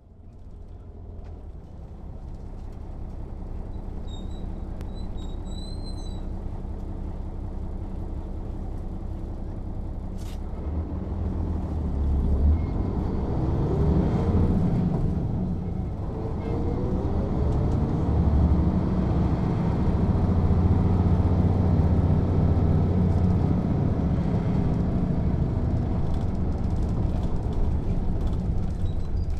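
Mercedes-Benz O 407 city bus's six-cylinder diesel engine pulling away and gathering speed, growing louder after about ten seconds, with its pitch climbing and falling back around the middle as it changes gear.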